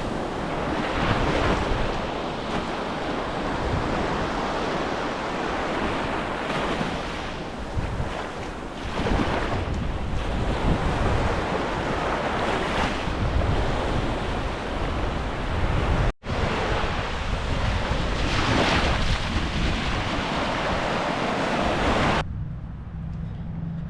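Surf rolling in and breaking on a beach, swelling and easing every few seconds, with wind buffeting the microphone. Near the end it gives way to a much quieter, steady low hum.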